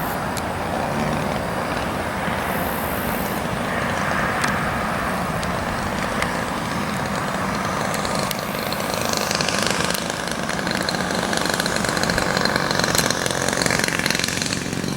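The 50cc two-stroke gas engine of a large RC airplane idling as the plane glides in on its landing approach, idling a little heavy. The engine sound grows slowly louder over the whole stretch.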